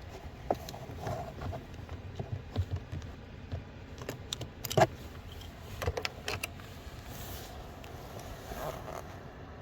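Hand work on car interior parts: scattered clicks, taps and knocks from fittings and screws being handled, the loudest a sharp knock near the middle.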